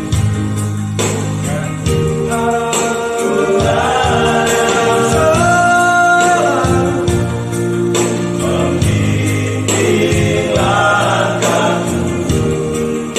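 Vocal group singing a gospel song in harmony over a band accompaniment with a steady beat, the voices holding long notes.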